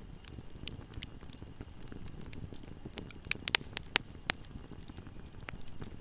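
Wood fire crackling: a steady low rumble of burning with scattered sharp pops, and a cluster of louder pops a little past halfway.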